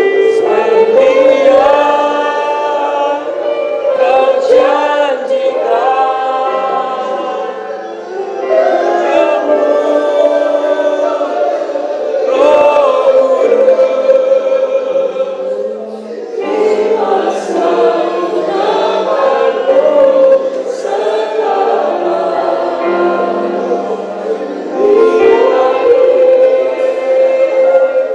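Many voices singing a worship song together, with long held notes over sustained accompanying chords.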